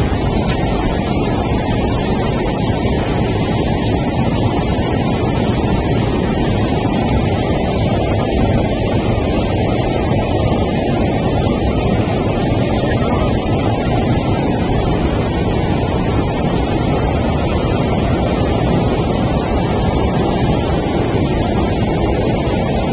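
Floodwater rushing through a street: a loud, steady wash of fast-moving water that does not let up.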